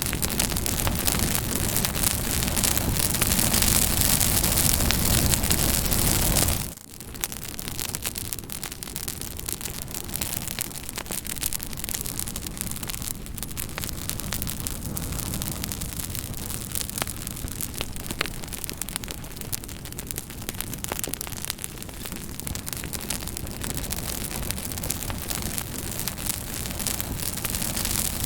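Campfire burning, wood crackling and popping with a steady hiss of flames. A little under seven seconds in the sound dips abruptly and carries on somewhat quieter, with sharp pops standing out.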